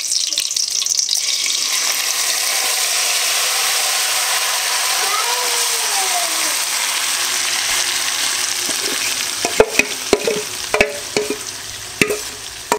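Green-masala-marinated chicken hitting hot oil with whole spices in an aluminium kadai and sizzling loudly and steadily. From about nine and a half seconds in, the sizzle dies down and a spoon scrapes and knocks on the metal bowl and pan several times.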